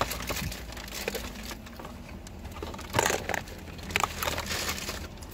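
Crunchy fried popcorn chicken being chewed close to the microphone: scattered crackles and crunches, the loudest about three and four seconds in.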